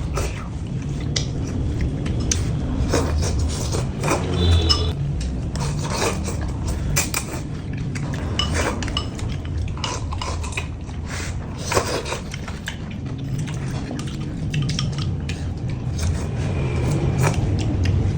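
Cutlery clinking and scraping against a bowl of noodle soup as it is eaten: irregular short clinks throughout, over a low steady hum.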